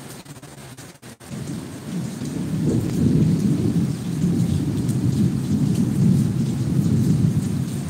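Heavy rain with a long, low rumble of thunder that builds from about a second in and stays loud for the rest of the stretch.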